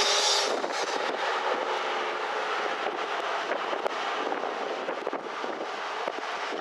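Diesel freight train approaching slowly, its sound mixed with wind buffeting the microphone, with a stronger gust near the start.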